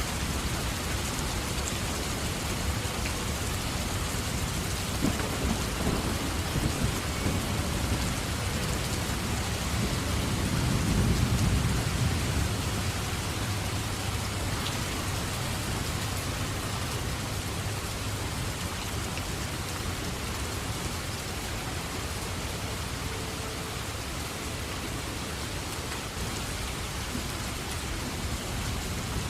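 Steady heavy rain with a rumble of thunder that builds about five seconds in, peaks around eleven seconds and fades away.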